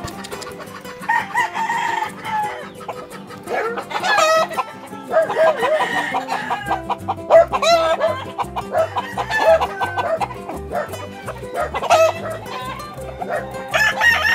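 Gamefowl roosters crowing one after another, several crows overlapping, with clucking between. Background music runs underneath, a steady beat coming in about halfway through.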